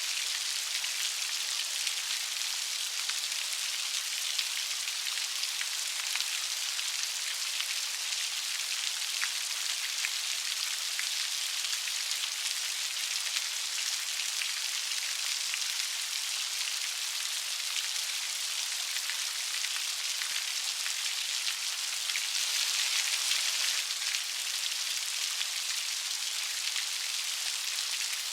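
Light rain falling steadily, an even patter and hiss, swelling slightly louder for a couple of seconds about three-quarters of the way through.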